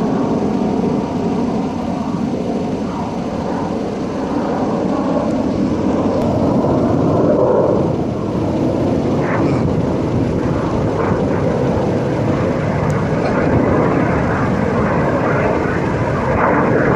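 Display aircraft flying overhead, a loud steady engine noise.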